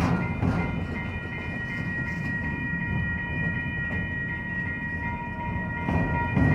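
Norfolk Southern freight train rolling past: a steady low rumble of wheels on rail, a few clacks near the start and again near the end, and a steady high-pitched ringing tone held throughout.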